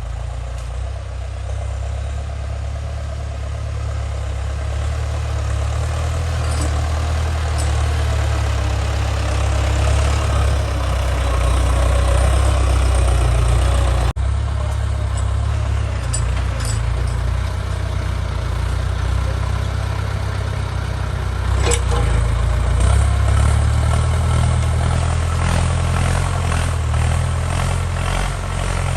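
Ford 6600 tractor's diesel engine running steadily while plowing a muddy field, growing louder toward the middle, with a few sharp knocks in the second half.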